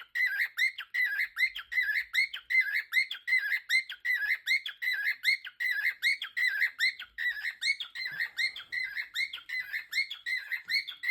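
A bird calling over and over in a fast, steady series of short notes, several a second, without a break.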